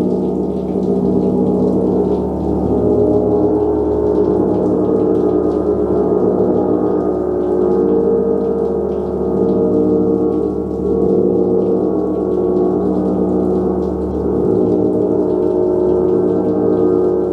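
A large gong played continuously, a sustained wash of many overlapping ringing tones that swells and eases every couple of seconds as it is kept going.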